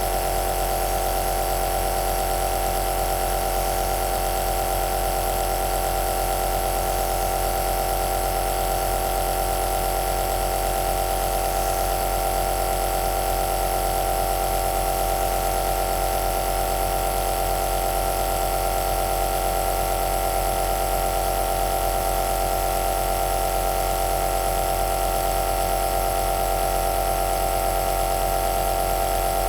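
Compressor nebulizer running steadily: a constant motor hum with a strong mid-pitched tone over a hiss, without change.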